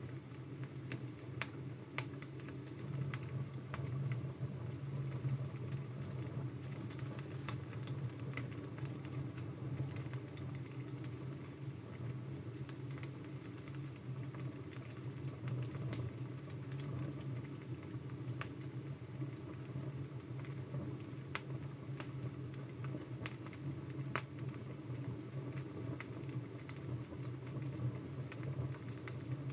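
Wood fire crackling: irregular snaps and pops from burning logs over a steady low rumble, a few pops standing out louder.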